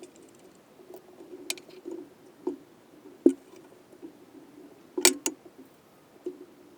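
Metal engine parts and hand tools handled during engine assembly: scattered clicks and light knocks. The sharpest knock comes a little past three seconds in, and a quick double clack comes about five seconds in.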